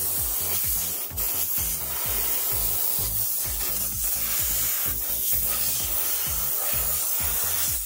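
Turret truck's hydraulic pump running as the lift is raised and lowered, making a loud, steady hiss that cuts off sharply at the end. Background music with a steady beat plays underneath.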